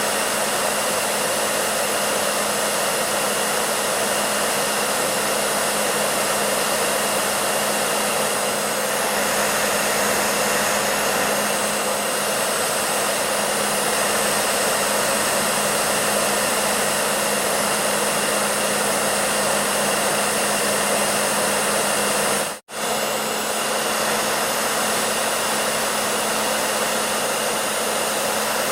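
Hair dryer running steadily: a dense, even whooshing hiss with a low steady hum underneath. The sound breaks off for a split second about three-quarters of the way through, then carries on unchanged.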